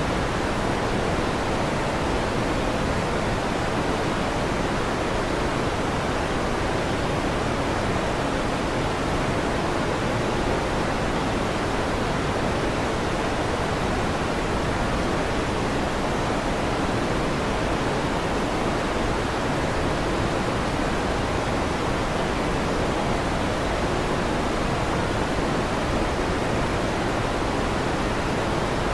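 Electric fan running with a steady, even rushing noise.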